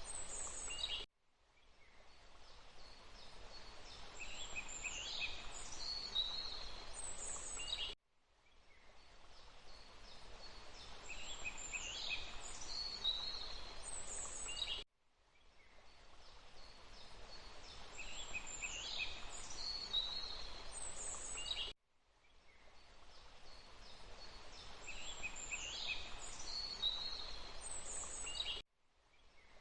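Songbirds chirping and twittering over a steady background hiss, in a short loop of about seven seconds: each time the sound cuts off abruptly, then fades back in, with the bird calls coming back in the same pattern.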